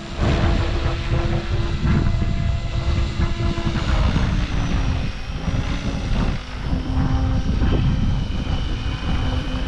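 Kraken 580 radio-controlled helicopter flying, its rotor and motor sound buried under heavy wind rumble on the microphone. The tail gyro gain is set too high (65), making the tail hard to control.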